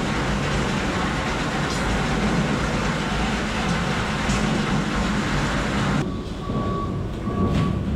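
Ice-factory machinery running with a loud, dense rumble and clatter. About six seconds in the rumble drops and a beeping tone sounds in short repeats, with a sharp click or two.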